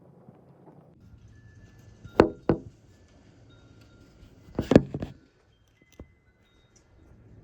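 Sharp knocks: two close together about two seconds in, then a quick cluster near the middle, and a single faint one after.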